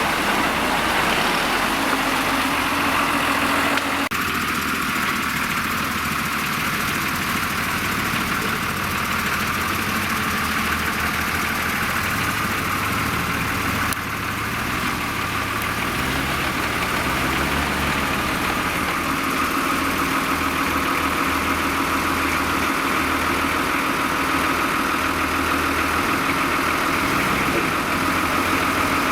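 Off-road vehicle engine running steadily, its engine speed rising and falling through the middle. The character of the sound shifts abruptly twice.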